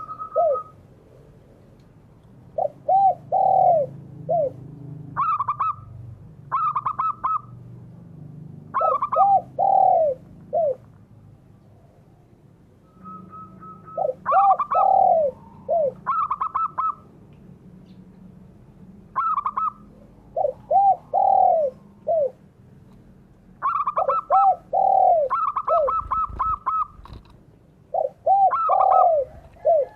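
Spotted doves (derkuku) and zebra doves (perkutut) cooing in repeated phrases. Each phrase has short high notes and then a few lower, rounded coos, and the phrases come every couple of seconds. A faint low hum sits underneath.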